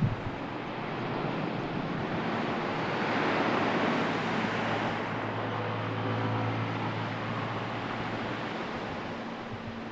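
Sea waves washing in with wind on the microphone, swelling about three to four seconds in. A low steady hum sits underneath from about five to nine seconds in.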